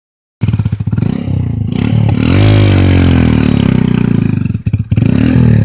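A small engine running loudly and revving: its pitch rises about two seconds in, then falls back. It cuts out briefly near the end.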